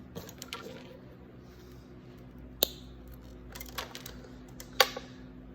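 Wire cutters snipping the compressor's wires: two sharp snips about two seconds apart, the second the louder, among light clicks of handling wire and tools.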